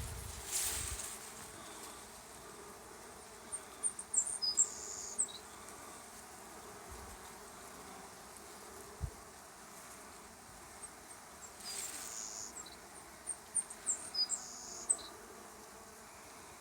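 Honey bees buzzing in a steady hum at a busy hive entrance. A run of short high chirps stands out twice, a few seconds in and again near the end.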